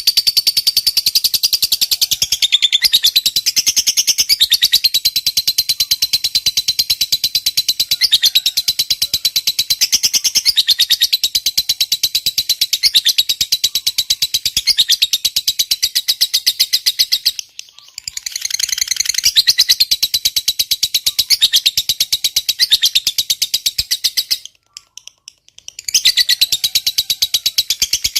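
A lovebird's long, rapid, high-pitched chattering trill ("ngekek panjang"), held for many seconds at a time, with a brief break about two-thirds through and a longer pause near the end.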